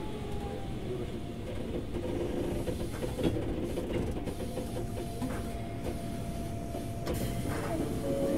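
Keikyu 2000 series electric train running, heard from inside the car: a steady rumble of wheels on rail with faint whining tones and a few sharp clicks, about three seconds in and again near the end.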